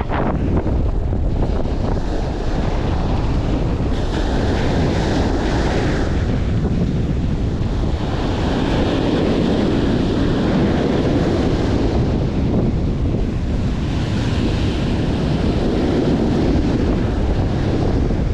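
Strong wind buffeting the microphone, over surf breaking on the beach, the wash swelling and fading every few seconds.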